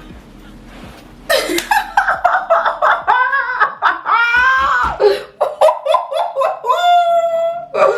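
A woman laughing hard in rapid bursts, starting about a second in after a short quiet gap, with a longer drawn-out high squeal of laughter near the end.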